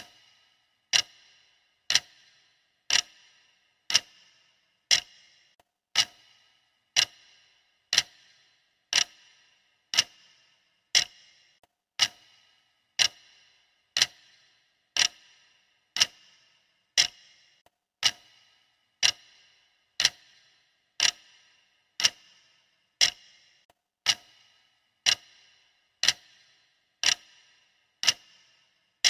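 Clock ticking steadily and evenly, one sharp tick every second.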